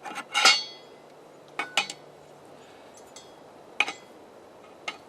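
Steel tine blades of a gas cultivator clanking and clinking metal on metal as they are handled and fitted onto the tine axle. The loudest is a ringing clank about half a second in, followed by a few sharper clinks.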